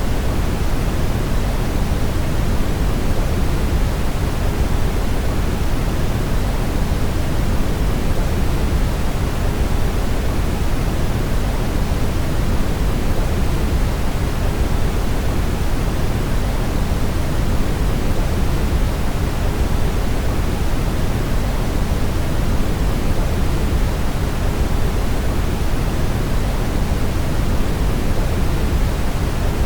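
Steady brown noise: a continuous, even hiss weighted toward deep, rumbling low frequencies, with no change in level.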